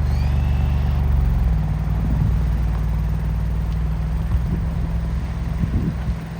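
Alfa Romeo Giulia GTAm's twin-turbo V6 running at low revs close by: a steady deep drone that steps slightly higher about a second and a half in, with a faint rising whine in the first second.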